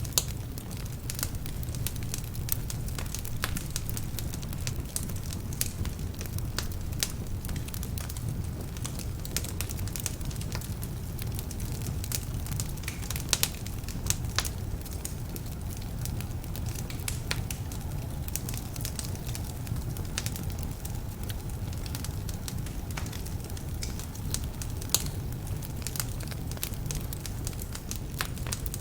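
Wood fire burning in a fireplace: a steady low rumble of flames with frequent sharp crackles and a few louder pops from partly damp logs.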